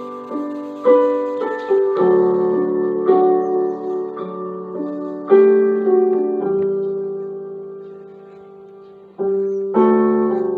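Background music: slow, gentle piano playing, chords and notes struck every second or so and left to ring, with one long note fading out before the next chord.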